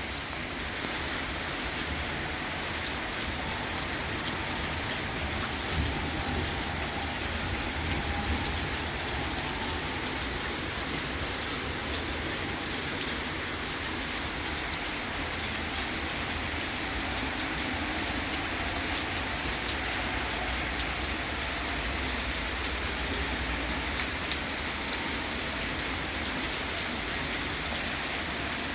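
Steady rain falling during a thunderstorm, an even hiss with scattered sharper drop ticks.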